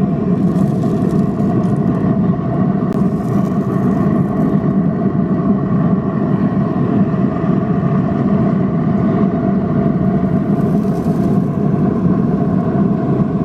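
A steady mechanical hum of a motor or fan running, unchanging throughout.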